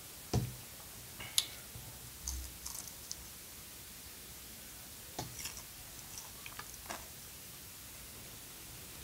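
A person chewing a bite of fried food, close to the microphone: a few soft crunches and wet mouth clicks, spread out with quiet gaps between them.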